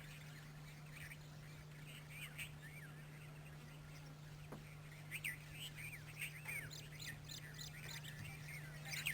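Faint small-bird chirps: many short, rising-and-falling calls scattered throughout, over a steady low hum.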